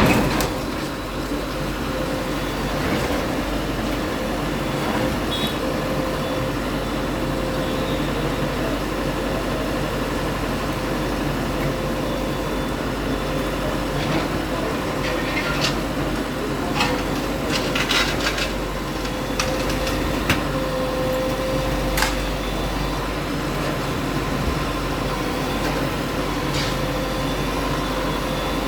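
A steady mechanical running noise with a faint hum, broken by a few short knocks and clatters in the middle stretch.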